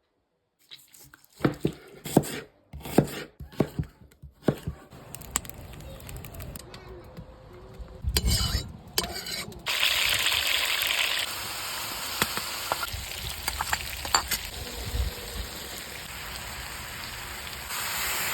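Plov ingredients frying in a kazan over a fire: a steady sizzle that gets louder at about ten seconds and again near the end. Several sharp knocks in the first few seconds, like a utensil striking the kazan.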